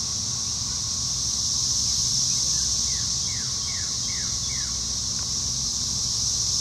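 Outdoor ambience: a steady high-pitched hiss over a low rumble. About three seconds in, a bird calls a quick run of five falling notes.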